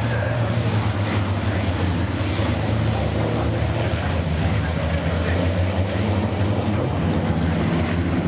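Racing trucks' diesel engines running on the circuit, a steady low drone.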